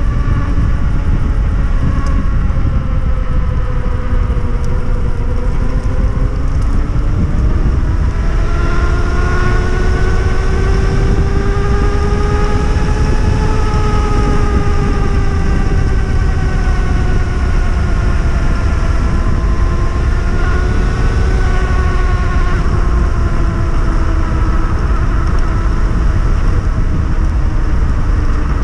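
Electric whine of a 3000 W hub motor driven by a Fardriver ND72260 controller on a 72 V electric enduro bike under way. The whine dips at first, climbs to its highest about halfway through, eases down with a short rise later on, then falls again, all over a heavy, steady wind rumble on the microphone.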